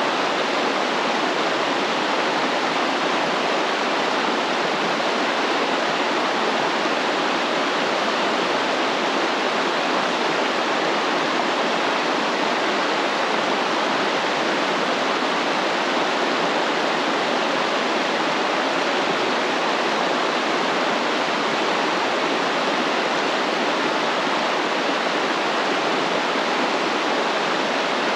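Steady rushing of a flowing stream, an even wash of water noise with no breaks or distinct splashes.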